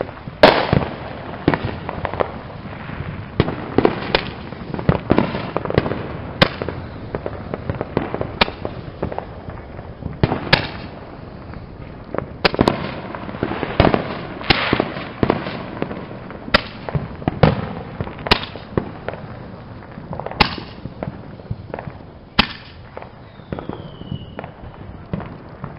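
Roman candle firing its shots one after another, a sharp pop about every two seconds, with smaller firecracker pops in between and a short falling whistle near the end.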